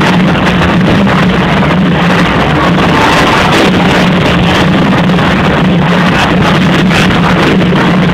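Motorcycle engines running as a loud, steady drone, harsh and distorted as if the recording is overloaded.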